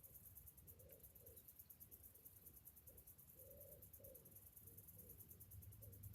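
Faint chorus of cicadas, a high-pitched buzz pulsing several times a second, with a low hum and short low calls repeating irregularly underneath.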